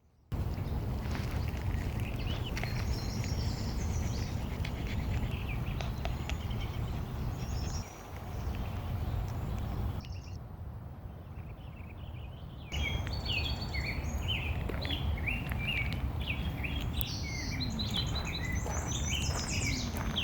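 Several birds chirping and singing in short repeated calls over a steady low outdoor rumble. The sound changes abruptly about ten seconds in and again near thirteen seconds, and the calls are busiest in the second half.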